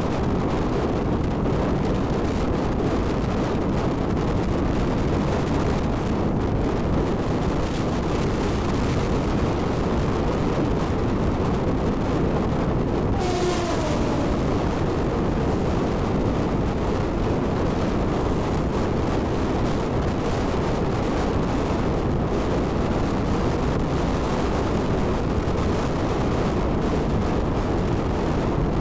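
Steady rush of wind and wheel noise from a Mumbai suburban local train running at speed, heard from its open doorway. About halfway through, a brief high sound with a falling pitch cuts through.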